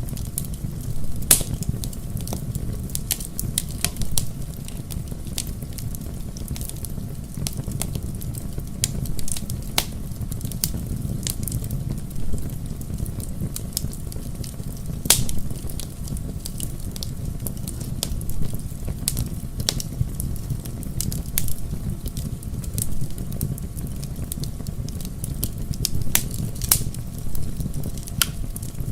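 Bonfire burning: a steady low rumble of flames with frequent sharp crackles and pops from the burning logs.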